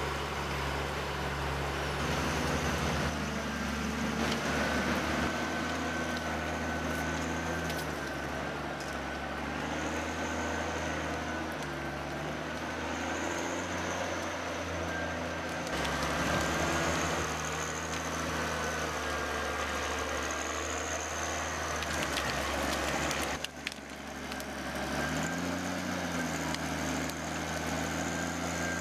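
Heavy machine's diesel engine running, its pitch stepping up and down with load, with a faint high whine above it. The sound changes abruptly about 23 seconds in, then the engine carries on.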